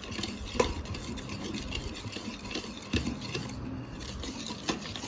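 Egg, sugar and butter cake batter being whisked in a bowl: a steady scratchy stirring with three sharp clinks against the bowl.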